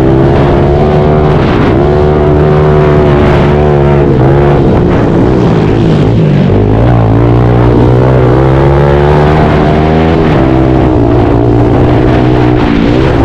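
Pit bike engine revving hard, its pitch climbing and then dropping sharply several times as the rider shifts or rolls off the throttle.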